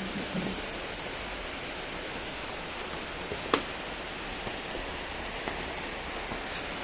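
Steady hiss of rain, with a single sharp click about three and a half seconds in.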